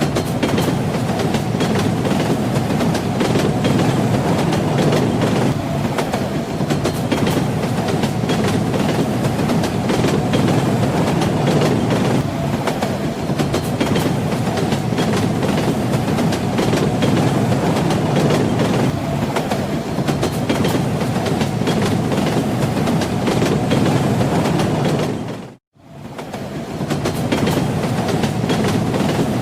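Train wheels clattering over the rail joints with a steady rolling rumble. The sound fades out to silence for a moment about 26 seconds in, then comes back.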